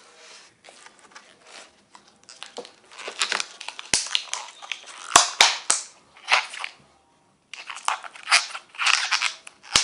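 Latex balloons being stretched and worked over each other by hand: irregular rubbery rubbing and crinkling with a few sharp snaps, broken by a brief gap about seven seconds in.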